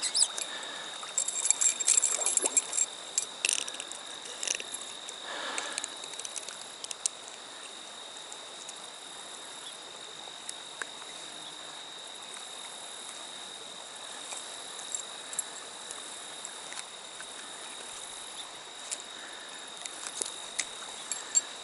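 Steady high-pitched drone of crickets over the rush of a trout stream, with scattered sharp clicks and small splashes in the first several seconds and again near the end.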